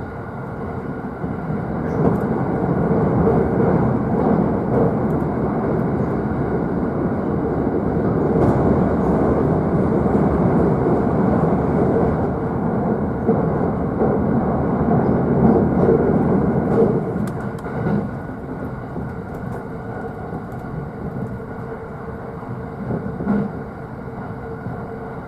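JR East E531-series electric train running at speed, heard inside the upper deck of a double-decker Green car: a steady rumble of wheels on rail with a faint held hum. It grows louder about two seconds in and eases off after about seventeen seconds.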